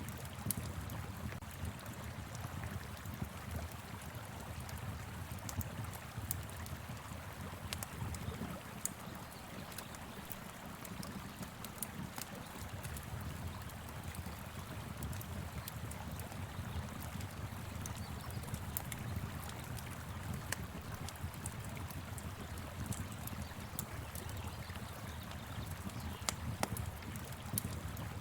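Fire pit crackling with scattered sharp pops, a few louder than the rest, over the steady low rush of a flowing river.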